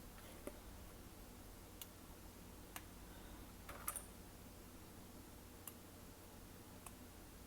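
Glossy slime being handled: faint, sharp little clicks and pops, about six of them, scattered irregularly.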